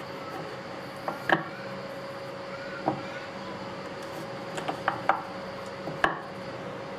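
Irregular sharp knocks and clicks of hand tools and metal parts being handled, about eight in all, during disassembly of an old stick welding machine. They sound over a steady faint hum.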